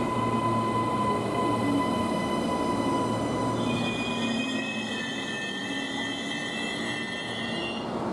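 Queensland Rail NGR electric train rolling through the platform with a steady rumble. From about halfway through, the wheels give a high, multi-toned squeal on the curve, which stops suddenly just before the end.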